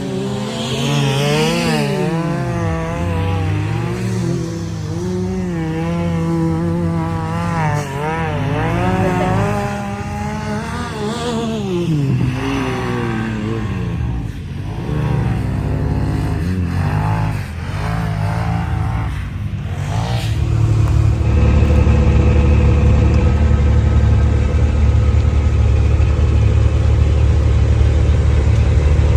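Side-by-side UTV engine revving up and down repeatedly as it drives the dunes, its pitch rising and falling every few seconds. About twenty seconds in it settles into a louder, steady run.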